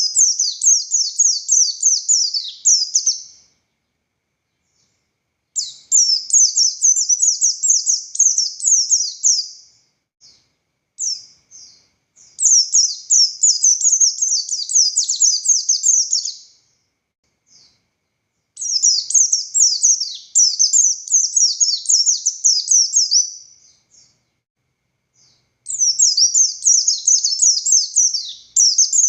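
A pleci buxtoni white-eye singing in repeated bouts of rapid, high, sharply falling notes, each burst lasting a few seconds before a short pause. This is the long, forceful wild-style song (ngalas) with rapid-fire 'shooting' notes (tembakan) that keepers call gacor.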